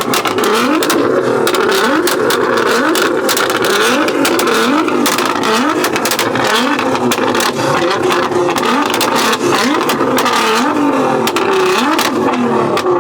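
Car engine revved over and over against a two-step launch limiter, its pitch rising and falling back about once a second, with a rapid crackle of exhaust pops and bangs throughout.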